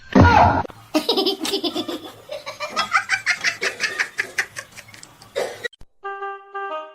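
Hearty laughter in rapid repeated bursts for about five seconds, after a loud opening shriek. It breaks off, and light music starts just before the end.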